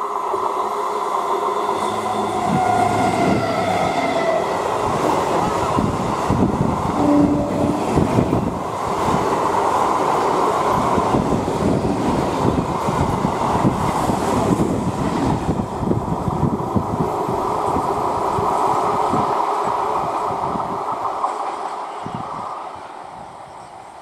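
Eastern Railway 12-coach EMU electric local train passing close at speed, its wheels clattering rapidly over the rail joints. The noise fades near the end.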